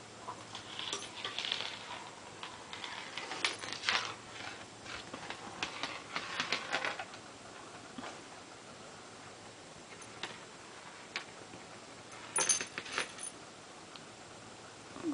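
Light jingling and clattering from a cat's toy being batted and carried about, in scattered bursts, the sharpest and loudest about twelve to thirteen seconds in.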